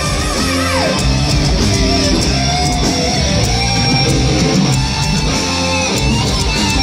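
Heavy metal band playing an instrumental passage: distorted electric guitars over bass and drums. A lead guitar line bends and wavers, with a downward slide about a second in.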